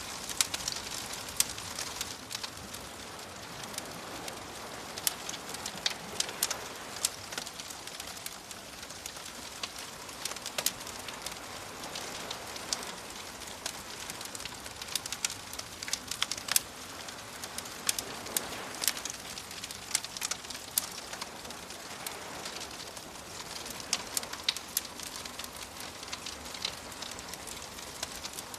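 Wood fire crackling, with frequent irregular sharp pops, over a steady hiss of soft surf that swells and eases every several seconds.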